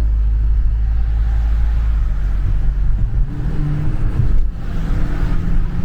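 A 2017 Dodge Charger Scat Pack's 392 (6.4-litre) HEMI V8 running while the car is driven, a deep steady rumble for the first two seconds, then the engine note rising as it accelerates, dipping briefly about four and a half seconds in and climbing again.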